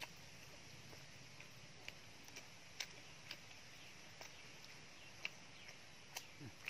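A person chewing food with the mouth closed: faint, irregular wet clicks and smacks, roughly one a second, over a quiet background.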